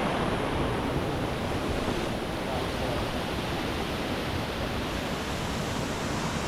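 Steady rush of a waterfall and its cascades, a continuous even noise of falling water.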